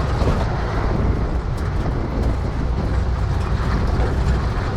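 1950s Volkswagen split-window bus's air-cooled flat-four engine running steadily at low speed over rocky ground, with a low drone and a few light knocks and rattles.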